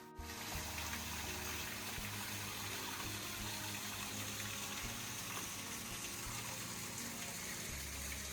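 Steady rush of running water, like a garden pond or fountain spilling, with soft background music underneath.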